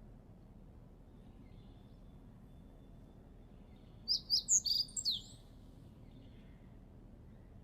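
A songbird gives a short burst of quick, high chirps about four seconds in, over a low, steady background noise.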